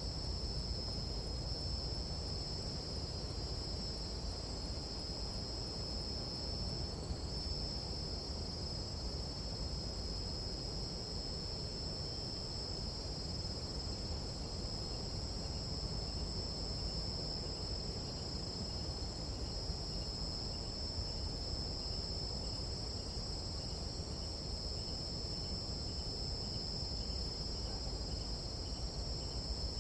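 A chorus of crickets and other night insects trilling in a continuous high-pitched drone over a low, steady rumbling hiss. About halfway through, a faint regular chirping, roughly one a second, joins it.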